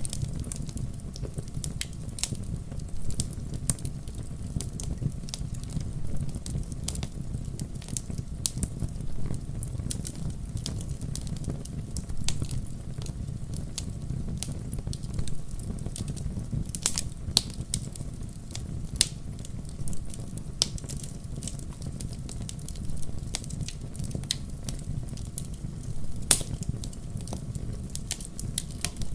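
Wood fire in a fireplace crackling and popping over a steady low rumble, with a few louder pops.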